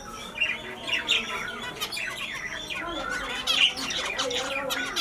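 Several Isabel finches calling together, a constant chatter of many short, overlapping chirps.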